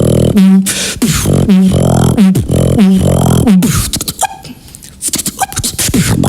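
Human beatboxing: a house-style groove of deep pitched bass hits, sharp snare and hi-hat clicks and buzzing lip sounds, with a sparser, quieter break about four seconds in before the beat picks up again.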